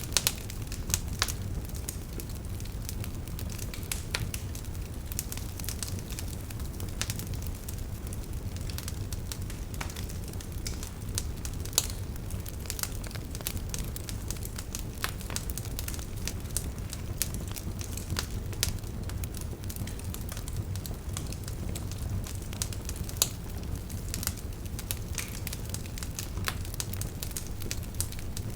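Wood fire burning with a steady low rumble and frequent irregular crackles and pops, a few louder snaps standing out.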